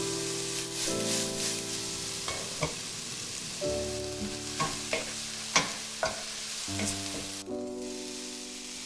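Steak sizzling in a frying pan, with sharp clicks and taps of a utensil against the pan; the sizzle drops away near the end. Soft background music plays underneath.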